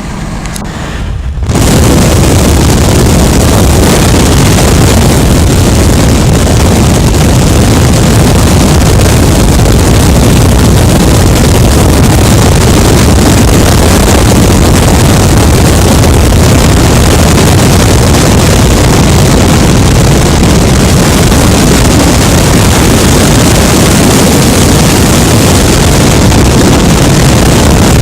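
Loud, steady wind buffeting on the microphone, starting abruptly about a second and a half in.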